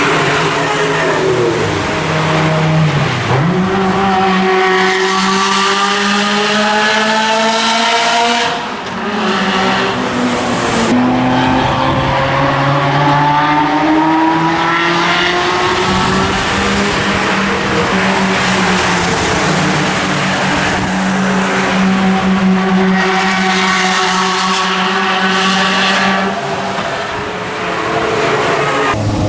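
Ferrari F355 Challenge's flat-plane V8 with a racing exhaust, running hard on track. Its pitch climbs and falls back several times as the car accelerates and changes gear, with a brief drop in loudness about nine seconds in.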